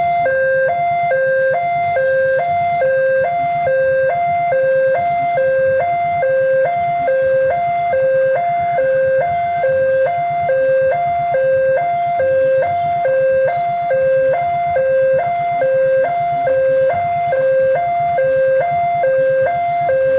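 Railway level-crossing warning alarm sounding a steady two-tone electronic signal, a higher and a lower tone alternating, each about half a second long. It warns that a train is approaching and the crossing is closed.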